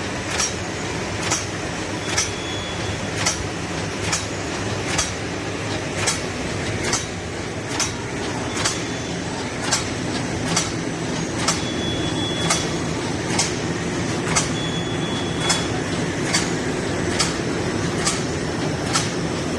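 HS500 servo side-sealer shrink-wrapping machine running: a steady mechanical hum with a sharp click about once a second, plus a few brief high tones.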